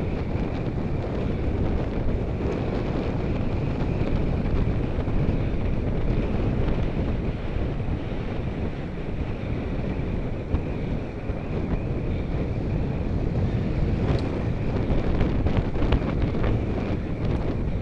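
Steady wind rush buffeting the microphone of a camera on a bicycle moving at speed, with a faint steady whine above it and a few light clicks near the end.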